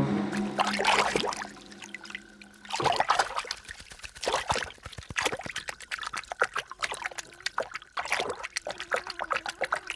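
Music fading out in the first few seconds, then water trickling and splashing in quick, irregular drips.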